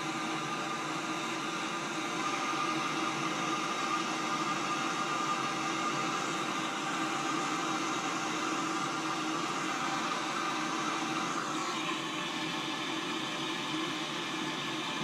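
A steady hiss-like noise, with a brief falling whistle about twelve seconds in.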